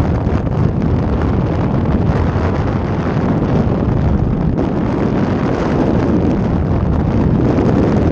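Steady, loud wind rushing over the microphone of a paraglider in flight, a rumbling buffeting heaviest in the low end.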